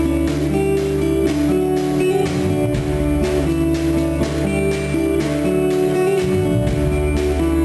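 Live band playing an instrumental passage, with strummed acoustic guitar, bass and drums keeping a steady beat, recorded from the audience.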